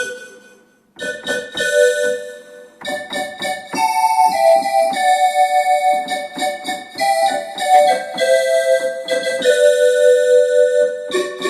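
Roland D-50 synthesizer playing its factory "Living Calliope" patch: a melody of notes and chords on the keyboard, with a short pause about a second in before the playing runs on.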